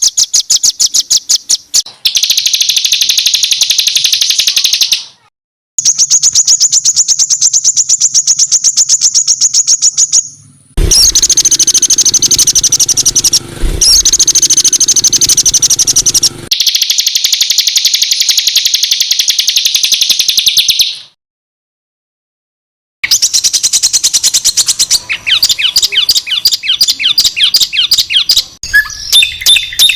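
Songbird 'tembakan kasar' song: long, very rapid strings of harsh, high-pitched repeated notes, in edited segments that stop abruptly into brief silences about five, ten and twenty-one seconds in. Near the end the song turns to a more varied run of quick notes.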